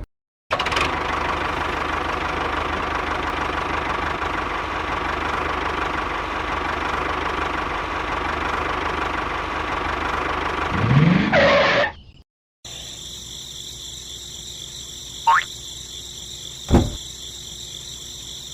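A small motor runs steadily for about eleven seconds, rising briefly in pitch near the end, and then cuts off suddenly. After a short pause a quieter steady hiss follows, with two short falling whistles and a single thump.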